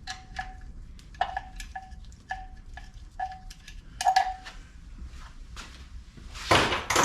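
Small steel bolts clinking against metal: a run of light taps, each with a short ringing note, about two a second. Near the end comes a louder scrape or rustle.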